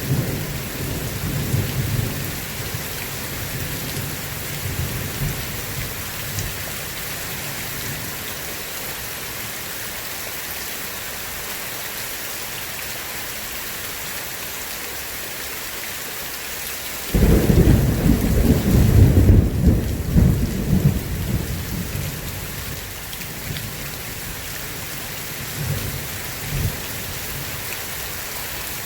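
Steady heavy rain with thunder: a rumble fades out over the first few seconds, and a sharp, loud thunderclap breaks about two-thirds of the way in and rolls on for several seconds before dying away, with a few faint rumbles near the end.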